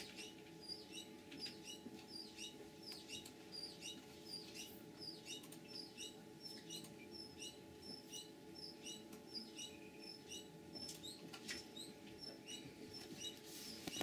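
A small bird chirping faintly in the background, short high chirps about twice a second, over a steady electrical hum, with a few faint clicks from handling a small plastic USB adapter.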